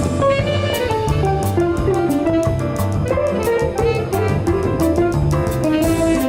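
Small jazz group playing: a melody moving note by note over a bass line, with the drum kit's cymbals keeping a steady beat.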